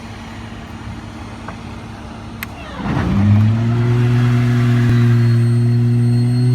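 Vacuum truck's engine and vacuum pump running: a steady hum, then about three seconds in it revs up and settles into a loud steady drone whose pitch slowly climbs.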